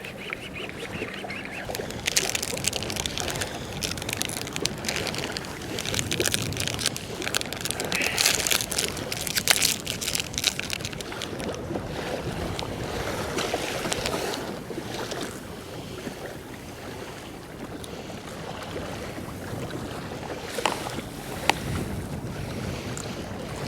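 Wind buffeting the microphone while choppy sea waves splash and slap against a fishing kayak, with irregular sharp slaps; the water is getting rough.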